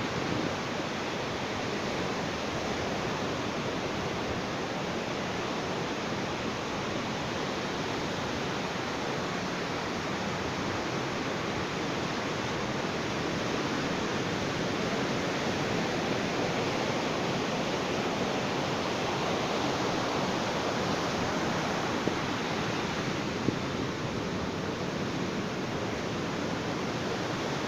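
Ocean surf on a beach: a steady rush of breaking waves, swelling slightly louder in the middle.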